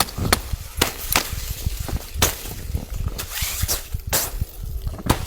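Wood fire crackling, with irregular sharp snaps of varying strength over a low steady rumble.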